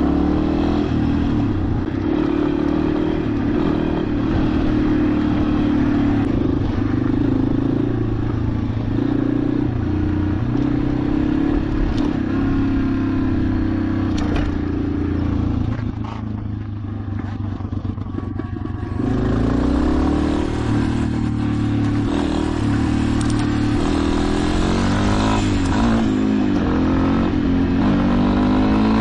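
Motorcycle engine running steadily while riding. It eases off for a few seconds about two-thirds of the way through, then picks up again.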